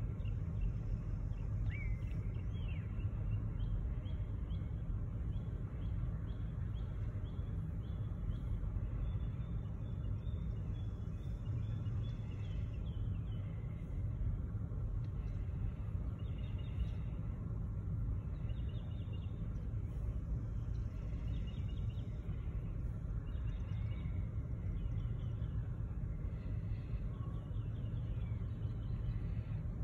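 Steady low rumble of a slow-moving double-stacked intermodal freight train rolling through a road crossing, with birds chirping in short repeated series over it.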